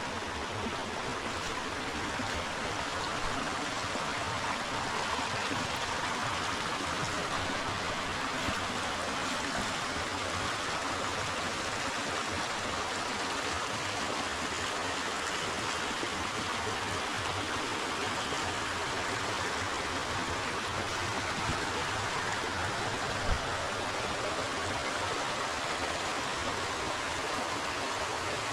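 River water flowing steadily, a continuous rushing with no change in level, and a few faint clicks or knocks, the clearest one about three-quarters of the way through.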